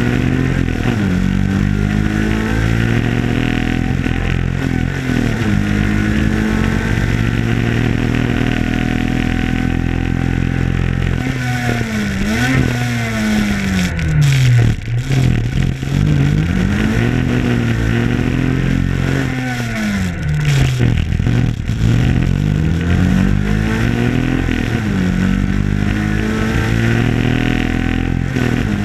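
Rally car engine heard from inside the stripped cabin, revving hard as it is driven flat out. The revs climb and drop again and again through gear changes, falling to low revs about halfway through and again about two-thirds of the way in before climbing once more.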